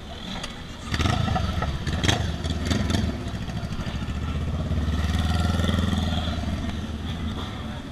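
Motorcycle engine running close by, loud from about a second in with a few sharp blips, then a steady low drone that swells and eases off toward the end.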